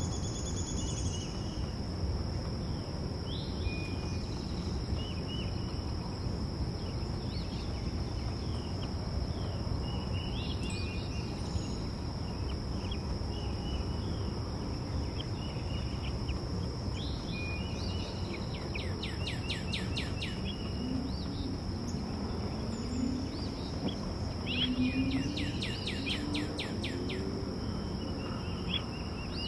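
Small backyard songbirds chirping, with two fast trills of rapidly repeated notes, over a steady high insect drone and a low background rumble.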